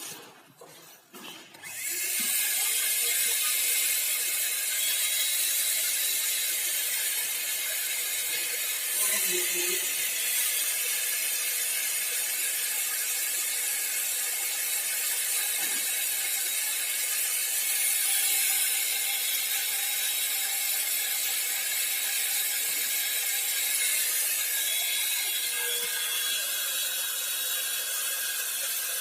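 A Paint Zoom handheld electric paint sprayer is switched on about two seconds in after a few clicks, then runs steadily with a loud, hissing motor drone while spraying wall paint.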